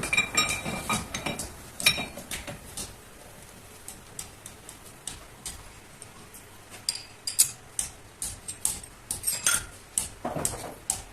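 Irregular metal clinks and taps of metal objects being handled, with a brief ringing clink near the start.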